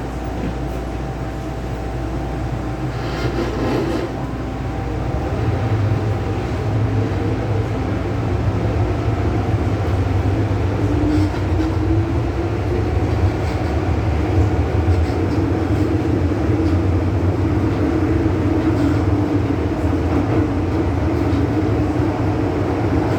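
MTR M-Train electric multiple unit running on the line. The rumble grows louder over the first several seconds, and a whine rises in pitch about halfway through.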